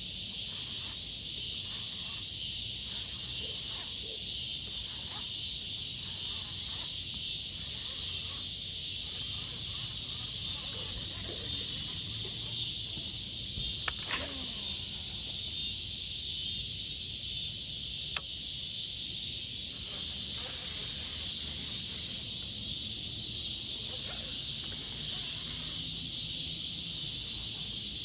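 Steady, high insect chorus of evening crickets, unbroken throughout, with a couple of short sharp clicks partway through.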